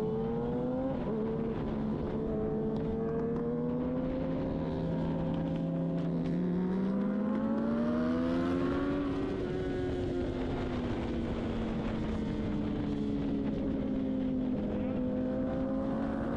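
Engine running steadily at road speed over a constant rush of noise. Its pitch climbs from about six seconds in, peaks around nine seconds, then eases back and holds.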